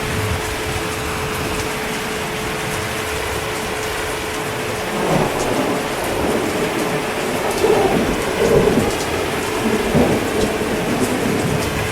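Steady heavy rain. From about five seconds in, thunder rumbles and swells several times over the rain.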